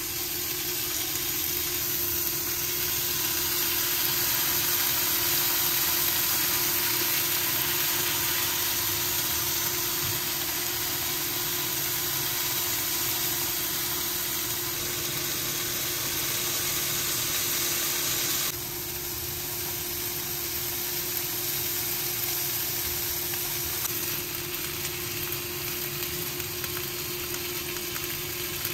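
Salmon steaks sizzling steadily in hot oil in a frying pan, with a steady low hum underneath. The sizzle steps down a little about two-thirds of the way through.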